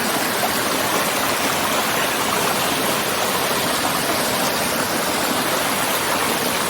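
Two small rainforest brooks babbling where they meet under a bridge: steady rushing and splashing of running water.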